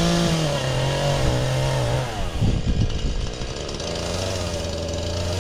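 Husqvarna 435 two-stroke chainsaw running as wood is cut: it revs up at the start, holds a steady high speed, then its speed drops sharply about halfway through and it runs at a lower pitch near the end.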